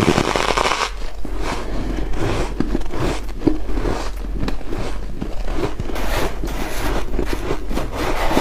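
White ice being bitten and crunched in the mouth: a dense run of irregular crackling crunches.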